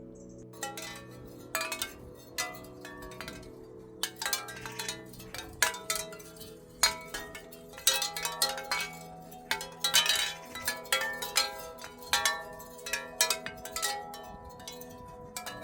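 Chimes ringing in an irregular jangle of many overlapping struck metal tones, over steady low held tones.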